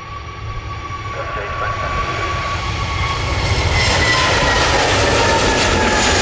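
Jet airliner engines growing louder over the first four seconds, then holding steady, with whining tones that slowly fall in pitch over a deep rumble.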